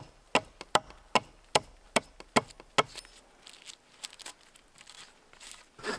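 A tool striking wood in a quick, even rhythm of sharp knocks, about two and a half a second, that stops about three seconds in, followed by faint scattered small knocks and handling sounds.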